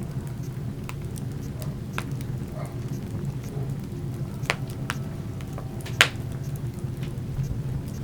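Wood fire burning in a fireplace: scattered crackles and snaps over a steady low rumble, with one sharp, loud pop about six seconds in.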